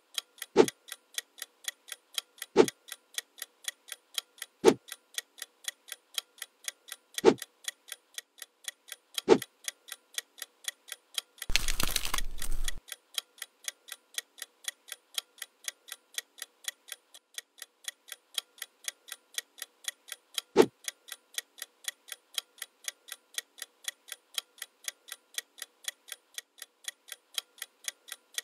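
Steady, even ticking sound effect, about three or four ticks a second, laid under the edit. Louder, deeper thuds land every couple of seconds in the first ten seconds and once more later on, and a short burst of rushing noise comes about twelve seconds in.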